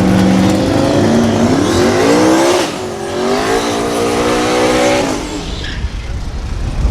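Performance truck engine accelerating hard, its pitch climbing, dropping at a gear change about two and a half seconds in, then climbing again before fading after about five seconds.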